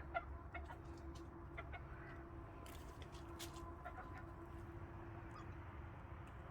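Domestic chickens clucking softly, a few short scattered calls, over a faint low rumble.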